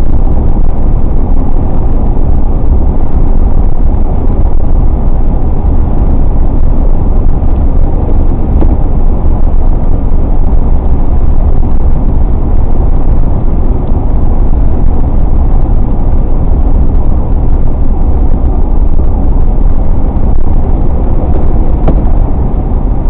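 A car driving at highway speed: a steady, even rumble of road and engine noise, strongest in the low end, with no changes.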